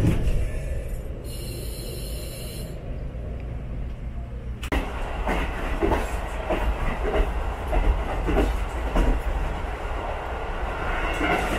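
Running noise of the Furano-Biei Norokko, a diesel-hauled sightseeing train, heard from inside its open-air passenger car: a steady low rumble. After an abrupt change about five seconds in, the wheels clatter over the rail joints in a regular beat of a little under two knocks a second.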